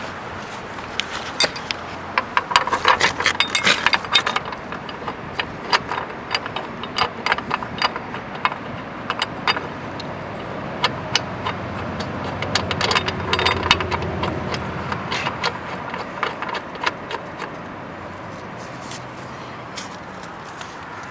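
Metal motorcycle-jack hardware being handled: clinking, rattling and scraping, with two busier spells, about two to four seconds in and again around twelve to fourteen seconds in.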